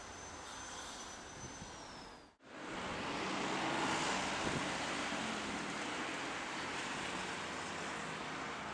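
Jet airliner engine noise with a high whistle that drops slightly in pitch, cut off abruptly about two and a half seconds in; a louder, even jet noise then swells in and holds steady.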